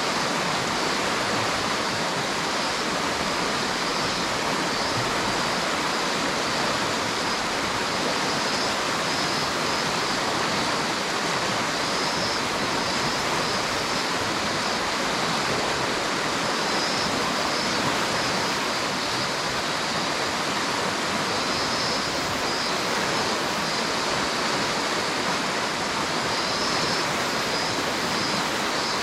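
River water rushing, a steady even hiss of flowing water that does not change.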